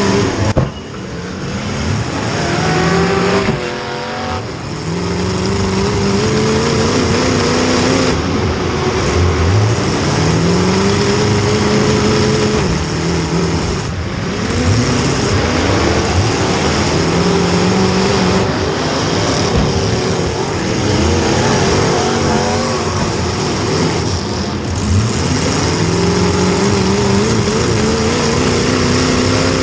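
Demolition derby car's small-block Chevy V8, loud and revving hard again and again, its pitch climbing and falling back every few seconds as the car accelerates and lets off.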